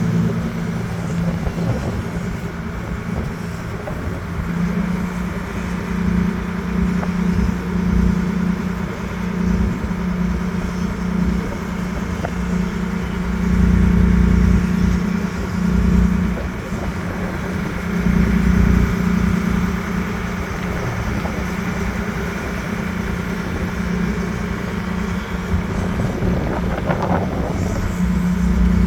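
Boat engine running at a steady speed, a constant hum over a low rumble.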